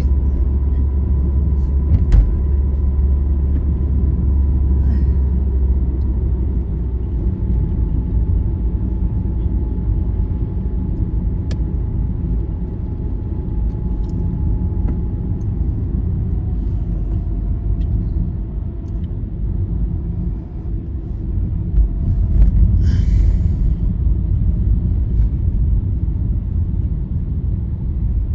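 Steady low road rumble of a vehicle travelling on a highway, with a faint whine that slowly drops in pitch and a short hiss about 23 seconds in.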